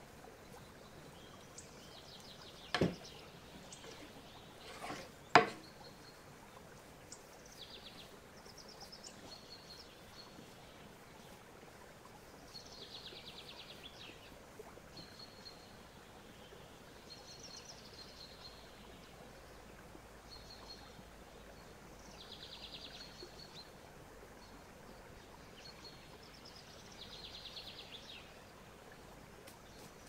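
A small bird chirping in short trilled calls every few seconds over a low background hiss. Two sharp knocks come about three and five seconds in, the second the louder.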